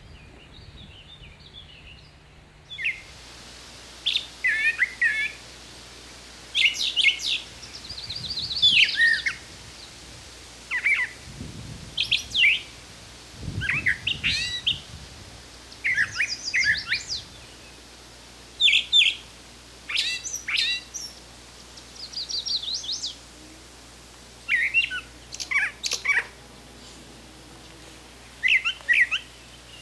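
A songbird singing a long series of short, varied chirping phrases with brief pauses between them, starting about three seconds in.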